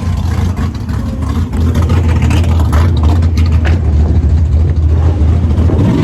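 Car engine running with a steady, loud low rumble.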